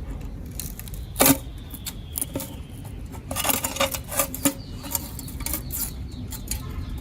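Metal engine parts and hand tools clinking and tapping, with one louder knock about a second in and a run of quick clicks around the middle.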